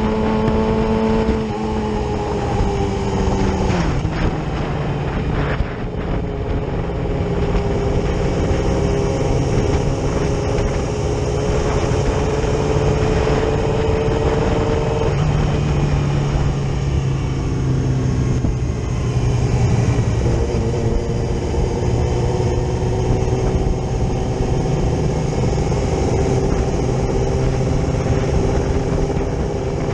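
Yamaha R6 inline-four engine running at road speed, heard from the rider's seat. Its note drops a few seconds in, settles into a lower, deeper note around halfway, then steadies.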